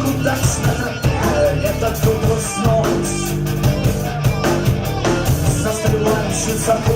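A rock band playing live: electric guitars, bass and drum kit, with no singing in this stretch.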